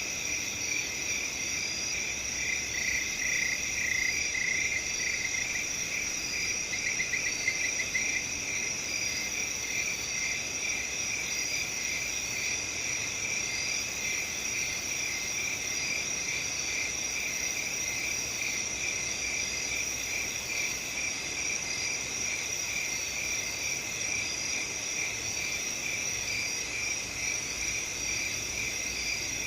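A chorus of crickets chirping steadily, several pitches layered together. One nearer, louder cricket pulses over the chorus from about 3 to 8 seconds in.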